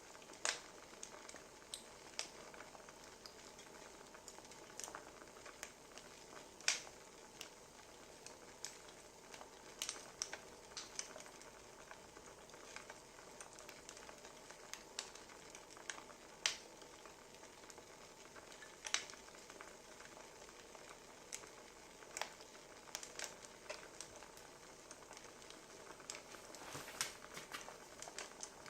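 Wood fire crackling: a soft steady hiss with irregular sharp pops and snaps, a few of them louder.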